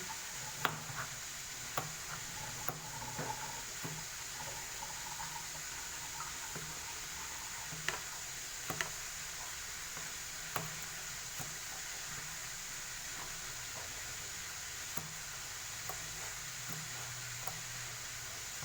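Stovetop cooking: a steady sizzling hiss from the pan, with a utensil knocking against the pot now and then as the food is stirred, most often in the first ten seconds or so.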